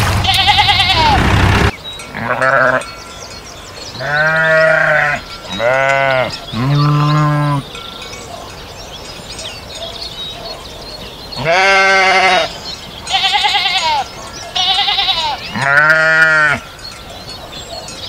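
Sheep bleating again and again: about eight wavering bleats of around a second each, some deep and some higher-pitched, in two clusters with a quiet gap of about three seconds between them. The first second and a half is louder, with a steady low hum under it.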